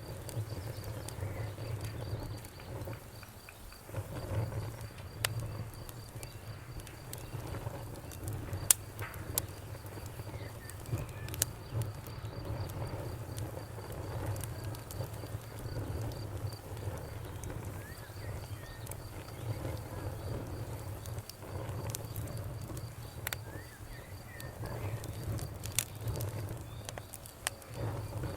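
Wood fire burning in a fireplace: a steady low rumble of flames under scattered sharp crackles and pops, with a few louder pops.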